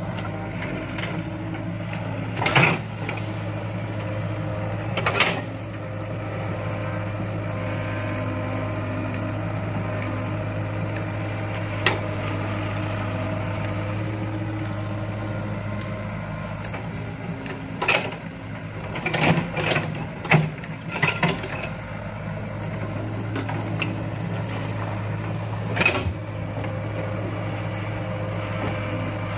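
Excavator engine running steadily, with a series of sharp clanks and knocks from the working machine, several in quick succession about two-thirds of the way through.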